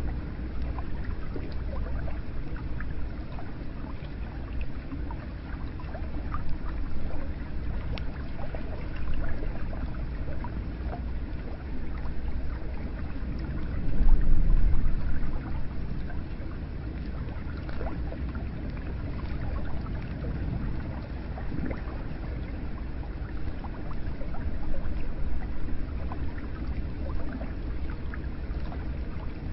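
Hot spring water steadily pouring and trickling into an onsen bath, a low rushing with scattered small drips and splashes. The flow swells louder for a moment about halfway through.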